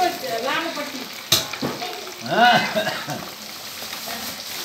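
Food deep-frying in hot oil in an iron wok, with a steady bubbling sizzle. A sharp click about a second in, and a brief voice in the background about two seconds in.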